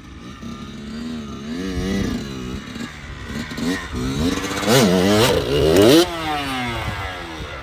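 Dirt bike engine revving up and down repeatedly, loudest about five to six seconds in, where the revs drop off abruptly.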